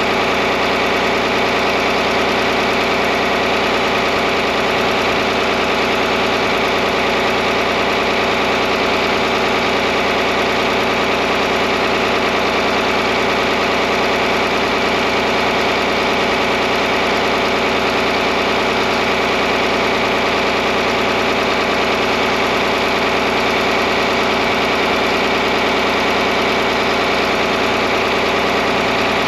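John Deere 4010 tractor engine running at a steady speed, an even, unchanging engine note.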